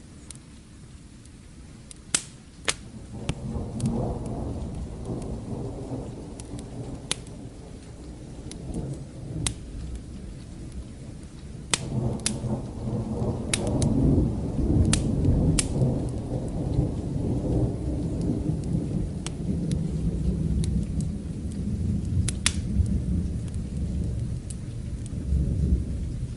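Distant thunder rolling in long, low rumbles over steady rain. The first swells about three seconds in, and a stronger roll builds after about twelve seconds and carries on. Sharp pops of a crackling wood fire come now and then.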